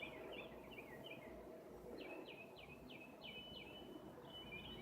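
Birds singing faintly: a warbling phrase, then a run of about five quick down-slurred notes about two seconds in, and a thin high whistle near the end.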